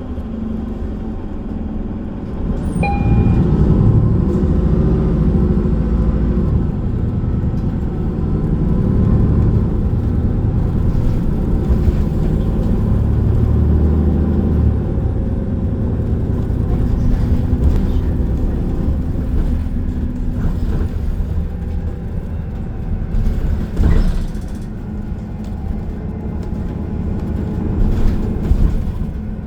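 Transit bus running along a road, heard from inside the passenger cabin: a low engine and road rumble that rises about three seconds in as the bus picks up speed, with a short beep just before and a single knock near the end.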